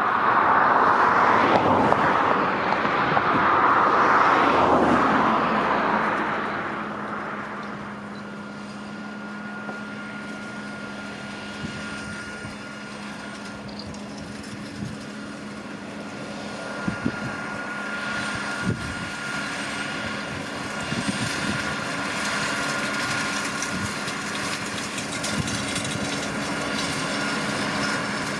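JCB Fastrac 4220 tractor working a Krone Swadro rotary rake in hay: for the first six seconds it is close and loud, a rushing noise over a steady engine tone, then it runs on farther off and quieter with a thin steady whine and a few short knocks.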